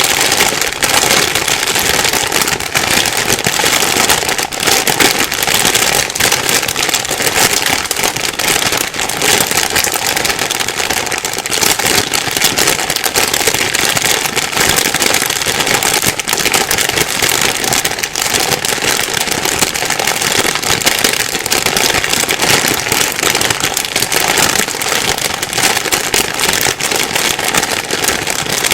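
Plastic bag being rustled and crumpled continuously, a dense crinkling crackle without pause.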